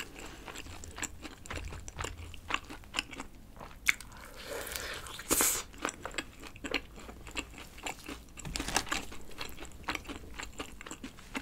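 Close-miked biting and chewing of spicy sauce-glazed fried chicken: a run of small crunches and mouth clicks, with one louder crunch about five and a half seconds in.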